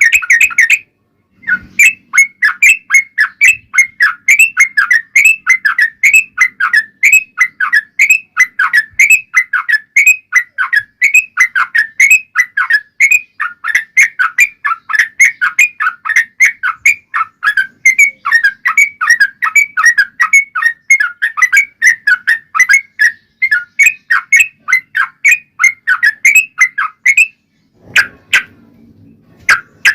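Yellow-vented bulbul (trucuk) singing a long, unbroken run of quick, short notes, several a second. The song starts about a second and a half in and breaks off a few seconds before the end.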